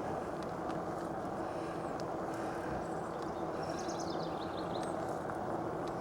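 Steady rush of wind across an unshielded clip-on microphone, mixed with tyre and drivetrain noise from an e-bike rolling along at speed. A short run of faint high chirps is heard about four seconds in.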